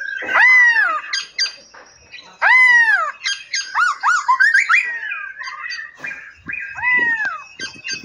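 Several caged songbirds calling together: three loud drawn-out calls that rise and then fall in pitch, one about half a second in, one near the middle and one near the end, with many quick chirps and whistles from other birds in between.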